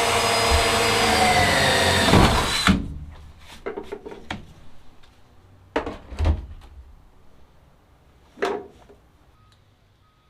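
Power drill running for about three seconds while drilling a hole, its pitch falling as the motor winds down; then scattered clicks and a few short knocks.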